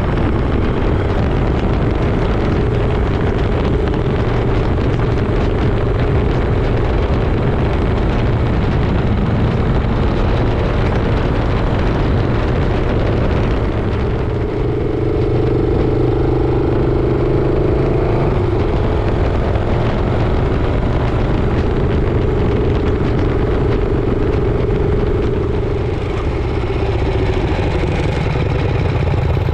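Motorcycle engine running under way with wind and road noise. The engine note gets louder about halfway through and eases back near the end.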